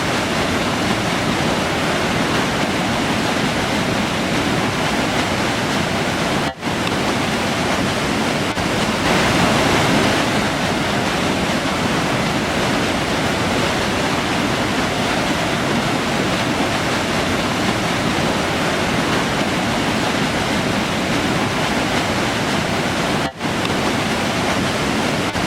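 River water rushing steadily over its bed. The sound briefly drops out twice, about a quarter of the way in and near the end.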